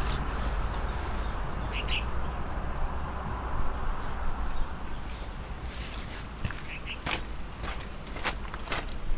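A steady, high-pitched chorus of insects, with a few light clicks and taps in the second half and a low rumble underneath.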